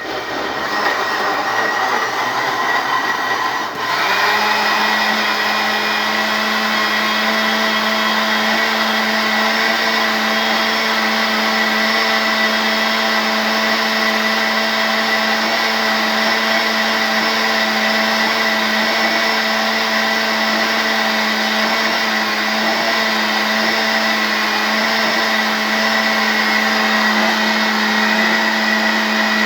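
New Mallory electric blender switched on and running continuously; about four seconds in its sound changes and settles into a steady, even hum. It is blending fruit that, by the owner's account, it is not chopping properly despite spinning for a long time.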